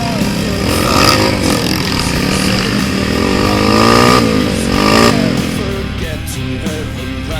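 Trail motorcycle engine revving up and down, its pitch rising and falling several times, loudest around one, four and five seconds in.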